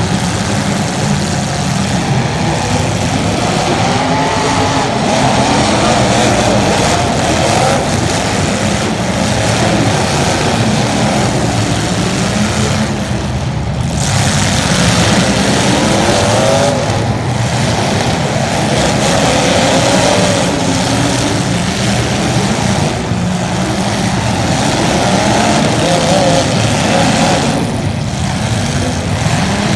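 Race car engines running hard on track, the pitch repeatedly rising and falling as the cars accelerate and lift off.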